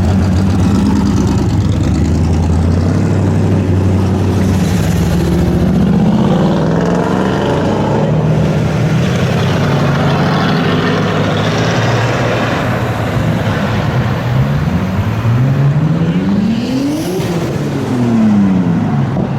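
Muscle car V8 engines rumbling at low speed, then one revving up over about two seconds and dropping back down near the end.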